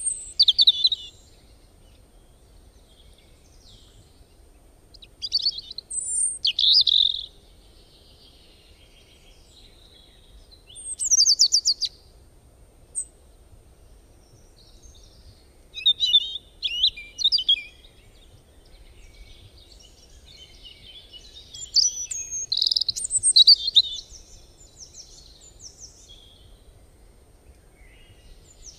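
Birds chirping and trilling in short, high-pitched spells every few seconds, with quiet gaps between.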